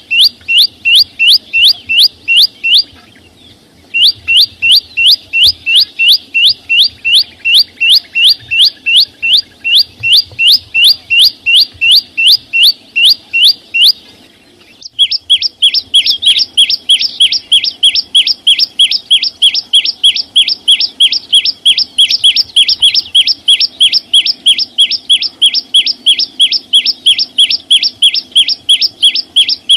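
A chim sâu xanh, a small green songbird, repeats one short, sharp rising chirp about three to four times a second. The chirping stops briefly twice, and after the second pause the chirp comes back a little lower in pitch.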